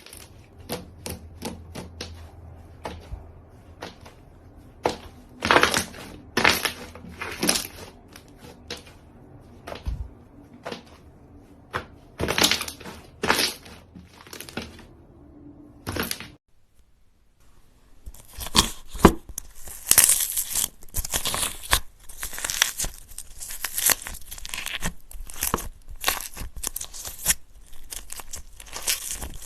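Slime being squished and stretched by hand, making sticky clicking and popping crackles. A brief pause comes a little past halfway, after which the crackling grows denser.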